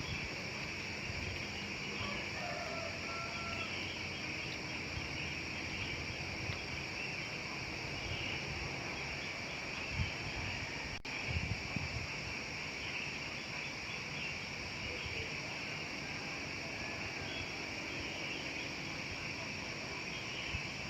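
Outdoor rural ambience: a steady high-pitched insect drone, with a faint distant rooster crowing about two to three seconds in and a few scattered bird calls.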